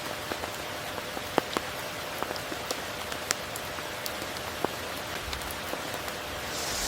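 Steady rain falling as an even hiss, with scattered single drops landing close by as sharp ticks. A brief swell of high hiss comes right at the end.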